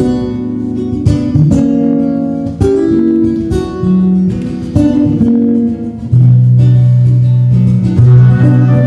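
Live acoustic trio music: an acoustic guitar plucking and strumming notes over low held bass notes.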